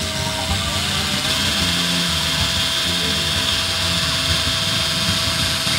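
High-voltage ignition of a model nine-cylinder radial engine running on the test bench, all nine spark plugs firing. It makes a steady motorised whine over a fast, dense ticking, and the whine's pitch rises slightly about a second in.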